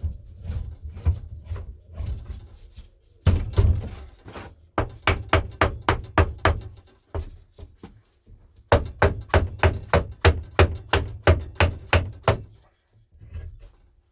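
Repeated hammer blows, struck in quick runs of about three or four a second, growing louder about three seconds in, with a short pause around the middle.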